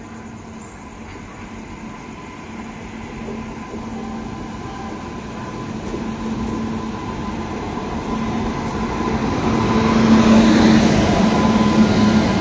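Indian Railways express train pulling into a station, its rumble and steady low hum growing louder as the locomotive draws near, loudest as it passes about ten seconds in, with the coaches rolling by after.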